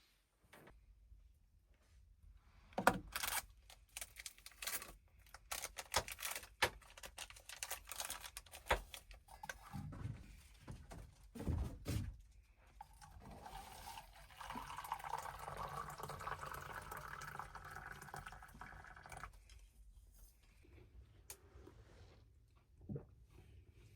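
A series of knocks and clatter, then liquid pouring steadily for about six seconds before stopping abruptly.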